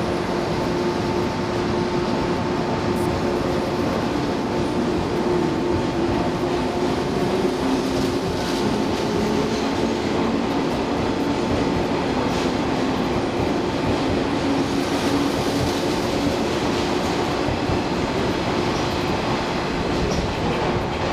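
JNR-era electric express train running past along a station platform: steady running noise with a motor hum and occasional clicks of wheels over the rail joints.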